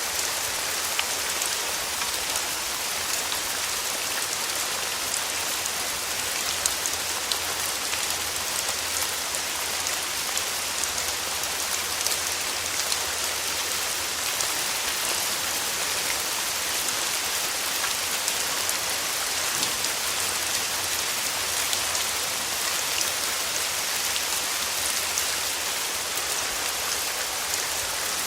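Steady rainfall, a dense even hiss of drops with many small scattered patters of individual drops striking a surface.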